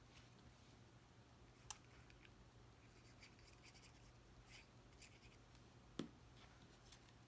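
Near silence, with faint handling of cardstock paper pieces being glued together: soft rustles and two small sharp clicks, the first about two seconds in and the second near the end.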